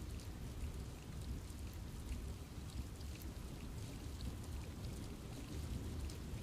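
Steady rain falling in a forest: many separate drops strike the leaves as short, sharp ticks over an even, low rumble.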